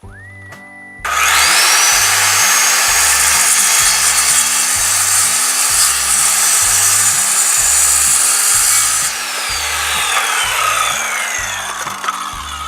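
Electric power saw cutting wood: the motor whine rises to a high steady pitch about a second in, the loud cut runs for about eight seconds, then the whine falls away as the blade winds down. Background music with a steady beat runs underneath.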